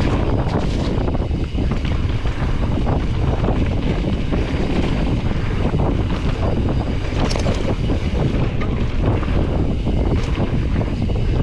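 Wind buffeting the microphone over the rolling rumble of mountain bike tyres on a dirt trail, with frequent short knocks and rattles from the Specialized Stumpjumper EVO Comp as it descends at speed.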